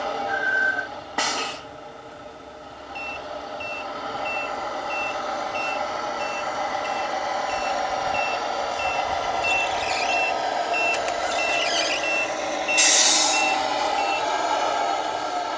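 Tamiya Scania 770S RC truck's sound unit beeping a reversing warning, about three beeps a second, over the steady whine of the truck's motor and engine sound. A short hiss of air comes about a second in and again near the end.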